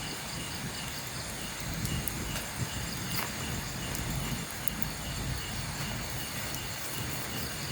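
Night insects, crickets, chirping in a steady repeated pulse over a low rumble, with a couple of faint clicks about two and a half and three seconds in.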